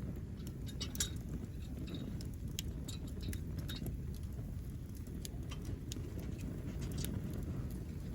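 Wood campfire burning, with scattered crackles and pops over a steady low rumble; one sharper pop about a second in.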